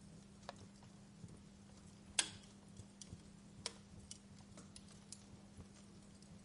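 Wood fire crackling faintly, with scattered sharp pops and ticks, the loudest pop about two seconds in, over a faint steady low hum.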